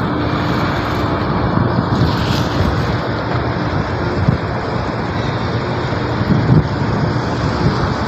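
Strong wind buffeting the microphone aboard a ship, a dense steady rush with rapid low gusting, and a faint steady hum underneath.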